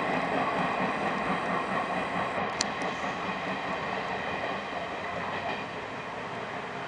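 A 113-series four-car electric train pulling away from the station, its running noise fading slowly as it recedes. A single short click comes about two and a half seconds in.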